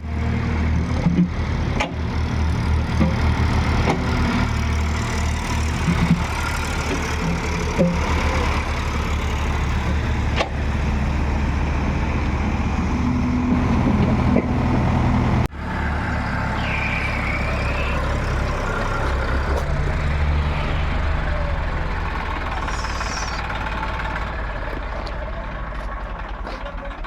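Eicher 480 tractor's diesel engine running with a steady low throb, broken by a few short knocks. The sound breaks off abruptly about halfway through, then goes on.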